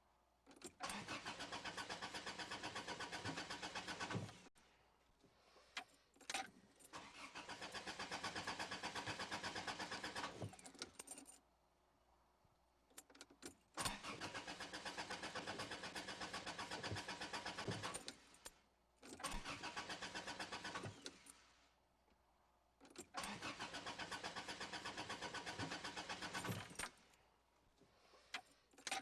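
A car engine being cranked by its starter in about five separate tries of two to four seconds each, an even rapid chugging with short pauses and clicks between tries. The engine never catches: a crank-no-start fault.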